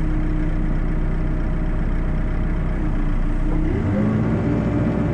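Heavy diesel engine running steadily, then revving up about four seconds in and holding at the higher speed.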